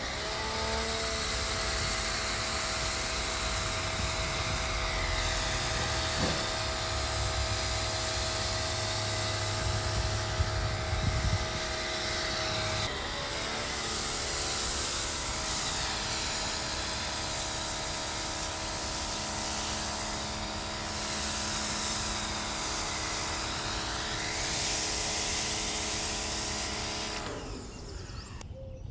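A power tool's motor running steadily with a whine, starting sharply, briefly changing pitch about halfway through, and cutting off shortly before the end.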